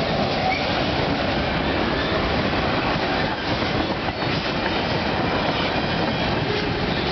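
Freight cars of a long CP freight train rolling past: a steady noise of steel wheels on rail, with a couple of clicks a little past the middle.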